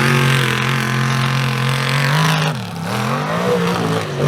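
Mega mud truck engine revving hard: it is held at high revs, drops off about two and a half seconds in, then climbs back up.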